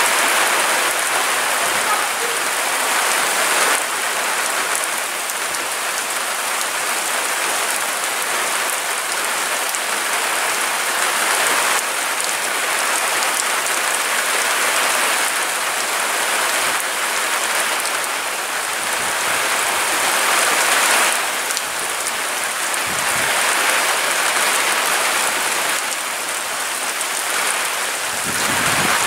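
Strong storm wind: a continuous rushing noise that swells and eases in gusts, with stronger surges near the start, about two-thirds of the way through, and near the end.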